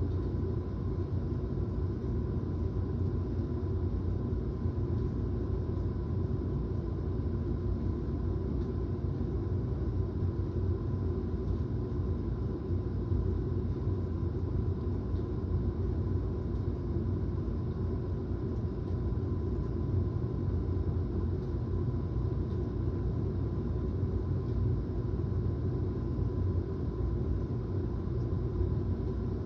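Steady thunderstorm ambience: an even, low rumbling noise with no separate thunderclaps, and a faint steady high tone running through it.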